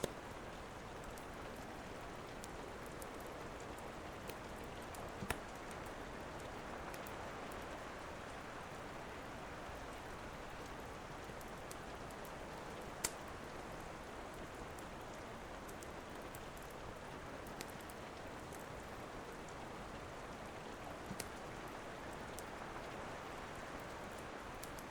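Steady rain falling, with a few isolated sharp pops and cracks of a wood fire crackling in a fireplace.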